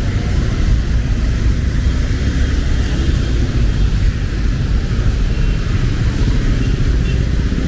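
Heavy rain falling steadily, under a constant low rumble of vehicle engines and traffic.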